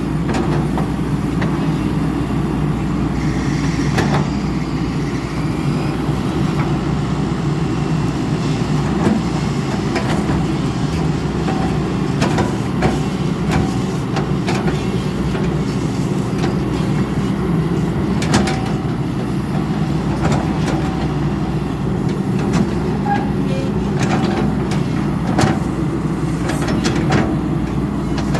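Cummins diesel engine of an XCMG 140 excavator running steadily, with sharp metallic knocks now and then.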